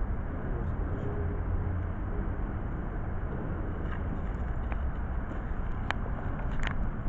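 A steady low rumble of outdoor background noise, with a few sharp clicks in the second half.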